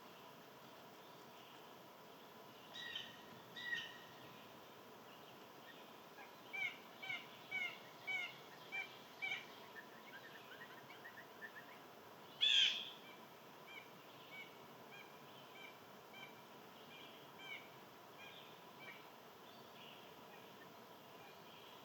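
Wild songbirds calling: two short calls, then a quick run of repeated chirps, one louder sharp call about halfway, and softer spaced chirps after it, over faint outdoor hiss.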